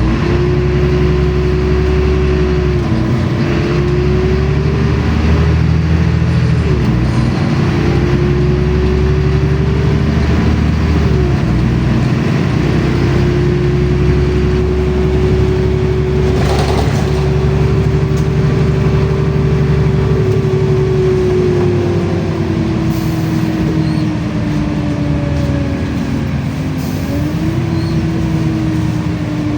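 LiAZ-5292.65 city bus under way, heard from on board: low engine rumble with a drivetrain whine that rises as the bus gathers speed and drops at each gear change, about 3, 7 and 11 seconds in. The whine then holds steady while cruising, sinks as the bus slows, and climbs again near the end as it pulls away.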